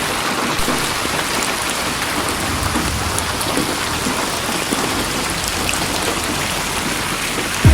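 Steady rain falling, an even hiss of drops with faint scattered patters.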